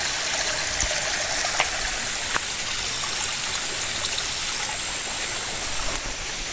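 Steady rushing of running water, like a stream, with a couple of faint clicks about one and a half and two and a half seconds in.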